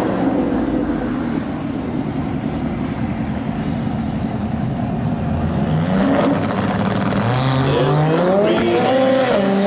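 Car engines running at the drag strip. About six seconds in, a car accelerates hard, its engine pitch climbing in steps through the gear changes.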